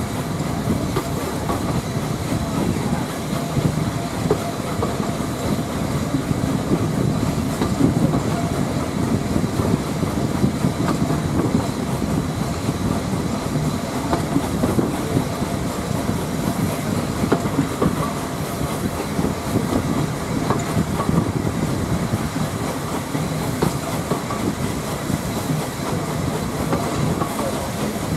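Steam-hauled train of GWR auto coaches running steadily along the line, heard from an open carriage window: the wheels and carriages rumbling on the track.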